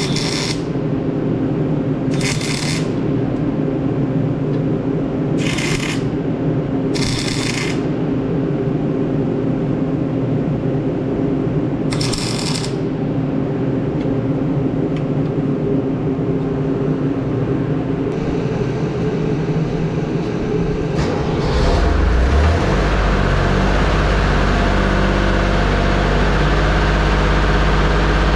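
An engine running steadily, broken by several short hissing bursts in the first half. About three quarters of the way through, a heavier, deeper engine rumble takes over.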